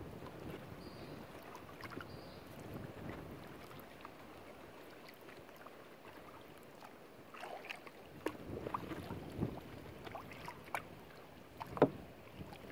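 Kayak paddling on calm water: faint splashing and dripping from the paddle. From about seven seconds in come scattered light knocks and clicks, with one sharp knock near the end.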